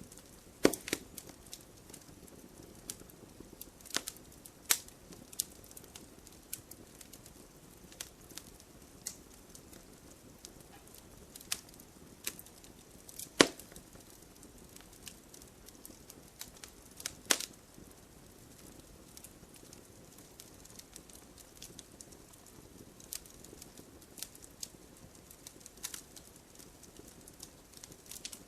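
Campfire crackling: irregular sharp pops and snaps over a soft hiss, with the loudest snaps about halfway through.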